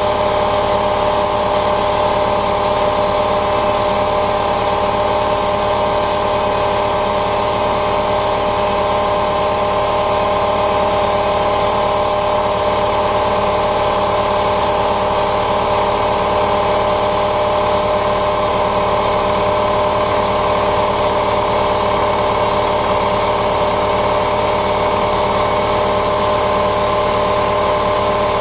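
Paint spray equipment running continuously: a steady spray hiss over a constant machine hum.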